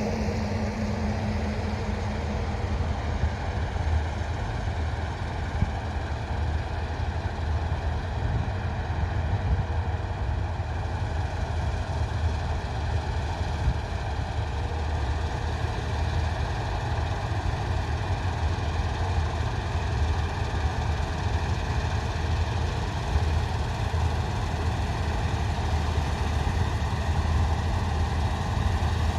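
Large diesel farm machinery running steadily: a low engine rumble with a faint, steady higher whine above it.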